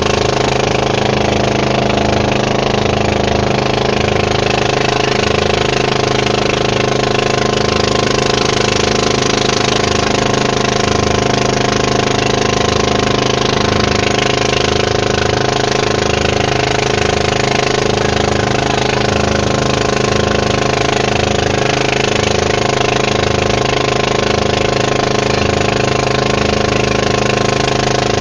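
Boat engine running steadily at an even speed, a constant drone with no changes in pitch.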